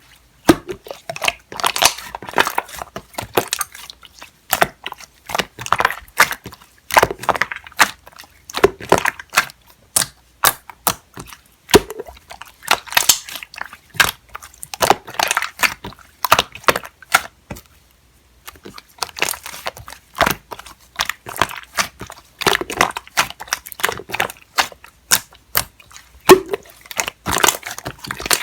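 Slime being squished, pressed and stretched by hand, making irregular sticky clicks and crackling pops with short squelching swells, pausing briefly about two-thirds of the way through.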